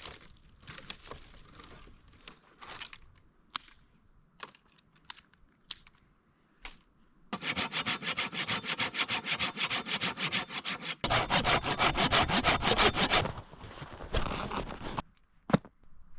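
Hand saw cutting firewood in fast, even strokes for about six seconds, starting about halfway in. Before the sawing there are scattered light knocks and clicks.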